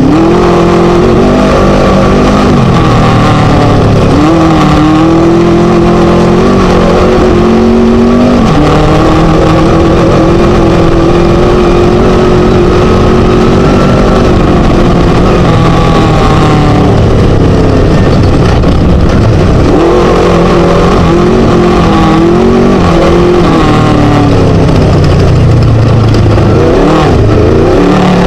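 Class 1 desert race buggy's Scat engine running hard, its revs climbing and dropping again and again through gear changes and lifts, under a constant loud rush of wind and chassis noise.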